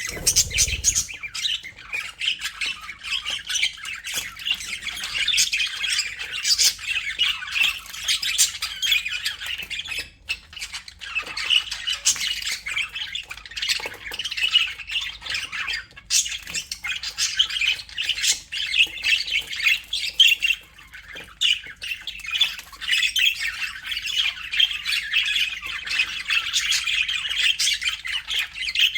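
A flock of budgerigars chattering, with a continuous mix of warbles, chirps and squawks from many birds at once, dipping briefly twice.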